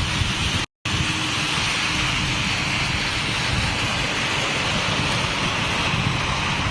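Steady heavy rain with wind buffeting the microphone: an even hiss over a low rumble, broken by a brief audio dropout about three quarters of a second in.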